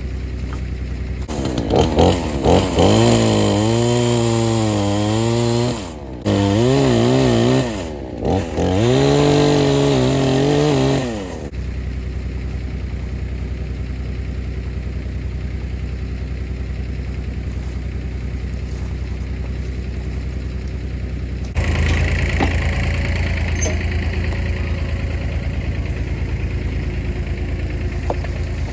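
Three-cylinder diesel engine of a 1985 Ford 1910 tractor run up under load while dragging a big log, its pitch wavering as it labours, dipping briefly twice. About eleven seconds in it drops back to a steady idle, and about twenty-one seconds in the throttle opens again to a louder steady run.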